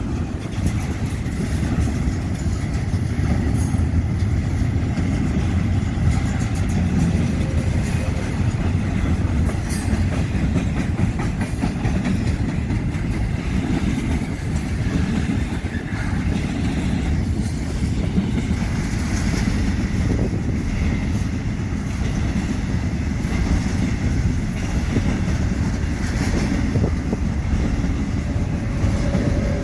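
Freight train cars rolling past on the rails in a steady, heavy rumble, with scattered clicks from the wheels.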